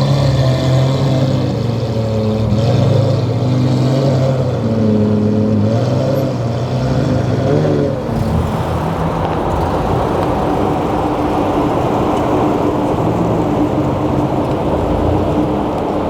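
Car engine running, its pitch rising and falling as it is revved and eased off. About halfway through this gives way to a steadier rush of engine and road noise with one constant tone.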